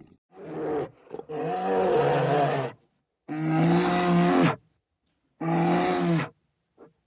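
A large wild animal giving four drawn-out pitched calls, each about a second long with short pauses between, then two brief huffs near the end.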